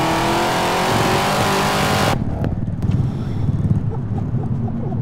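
Supercharged 6-litre LY6 V8 of a Holden VF Commodore at full throttle, heard from inside the cabin: a loud rush with the revs climbing. About two seconds in it cuts off suddenly as the throttle closes, dropping to a low rumble with a few sharp pops.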